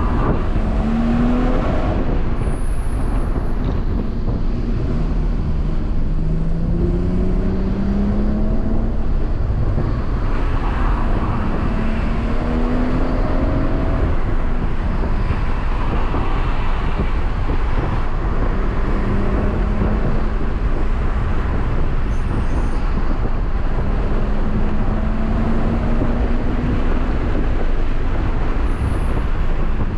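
A BMW M140i's turbocharged 3.0-litre straight-six, heard from inside the cabin under hard driving. The engine note climbs and drops again several times with throttle and gear changes, over steady tyre and road noise.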